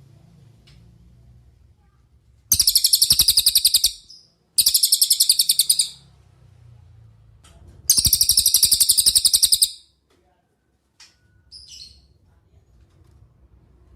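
Cililin songbird singing: three loud, fast, high-pitched trills of rapid repeated notes, each about one and a half to two seconds long, with a few short faint chips between them.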